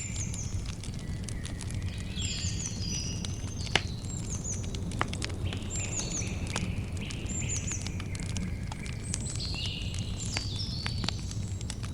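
Campfire crackling with scattered clicks and two sharp pops about four and five seconds in, over a low steady rumble. Birds call throughout in short, repeated, falling chirp phrases.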